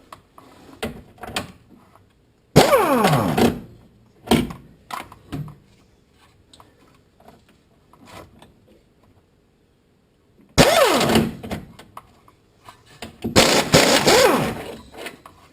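Wrench work on a suspension bolt of a lower control arm as the bolt is loosened and removed: three loud bursts of about a second each, with a falling pitch inside them, among scattered metallic clicks and knocks.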